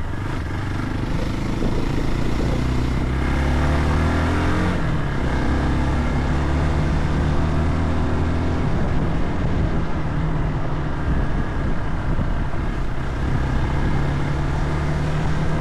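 Vehicle engine running under way on a dirt track, with revs rising about three to five seconds in, then holding steady.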